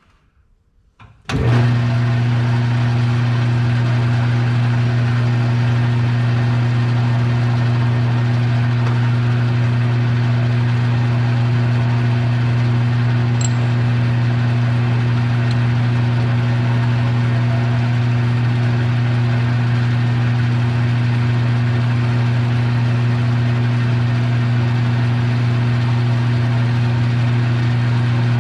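Metal lathe starting up about a second in and then running steadily with a loud, even electric-motor hum, while a center is drilled in the head of a bolt held in the chuck.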